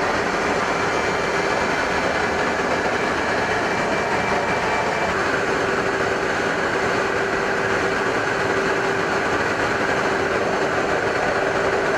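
F-35A's single Pratt & Whitney F135 turbofan running steadily: a dense rushing noise with a constant whine, whose higher tone shifts slightly in pitch about five seconds in.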